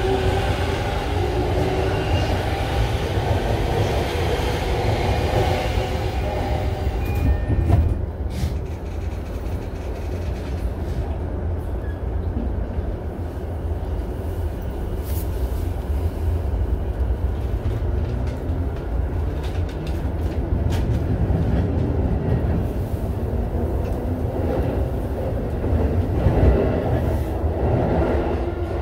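Inside a JR Chuo Line Rapid electric commuter train: the noise drops sharply just before eight seconds in, then a steady low rumble from the wheels and running gear builds again as the train pulls away from the station and gathers speed.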